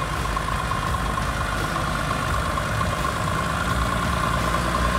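An off-road SUV's engine running steadily at low revs, with a steady high tone alongside the low rumble.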